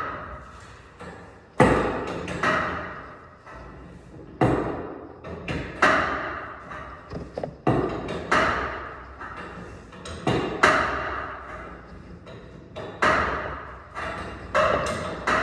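Torsion spring of a garage door being wound with steel winding bars: about a dozen sharp metal clanks, irregularly one to two seconds apart, each ringing out after it.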